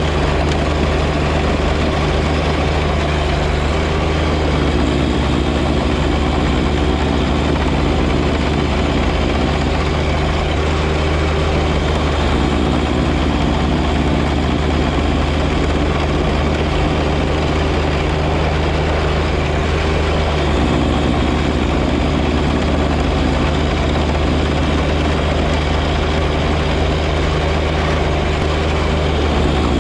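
John Deere 1025R compact tractor's three-cylinder diesel engine running steadily with its 54-inch front snowblower engaged: a constant low engine hum under an even rushing noise.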